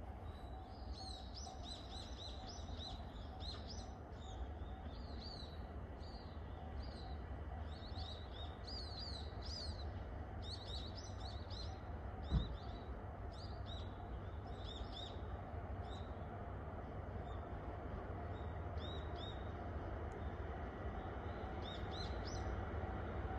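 Small birds chirping in many short repeated phrases over a steady low rumble that grows slightly louder toward the end, with a single knock about halfway through.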